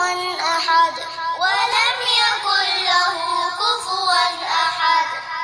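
Quran recitation chanted melodically in a high voice, with long held notes that waver and glide in pitch.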